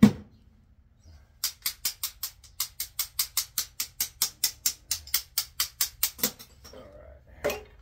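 Ratchet wrench clicking rapidly and evenly, about five or six clicks a second for around five seconds, as a bolt or nut is backed off. A single knock near the end.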